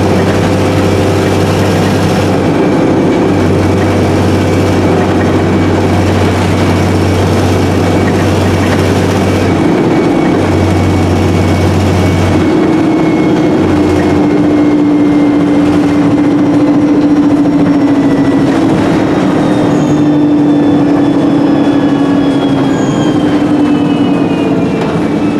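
Onboard sound of an Alexander Dennis Enviro300 bus on an ADL E30D chassis with a Voith four-speed automatic gearbox, under way: the engine and driveline drone steadily, the low hum drops out about halfway and the engine note shifts. A whine falls in pitch near the end. The bus's exhaust is blown.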